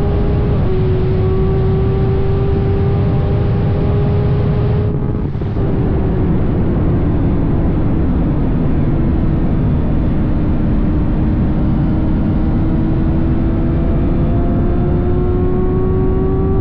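BMW S1000RR inline-four engine running at sustained revs under way, over heavy wind rumble on the microphone. The engine note dips briefly about five seconds in, sags a little, then climbs slowly toward the end.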